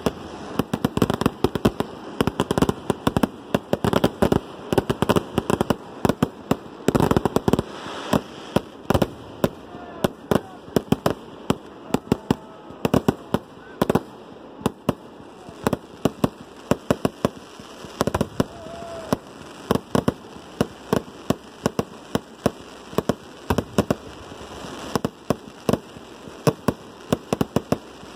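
Aerial fireworks firing and bursting in quick succession: a stream of sharp bangs, pops and crackles, several a second.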